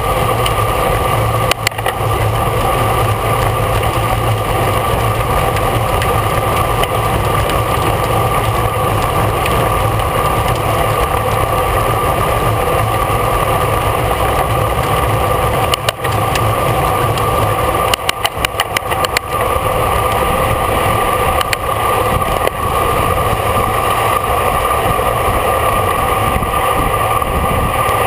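Steady rushing wind and road noise on a camera carried on a bicycle during a road race, with a constant hum. There are a few brief dropouts and clicks around the middle.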